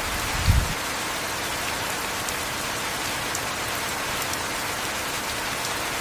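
Heavy rain falling steadily as an even hiss, with faint drip ticks. About half a second in there is one brief low thump.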